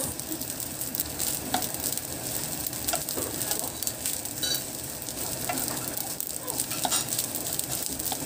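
Fried rice sizzling in a frying pan while a wooden spatula stirs and tosses it, with frequent light clicks and scrapes of the spatula against the pan.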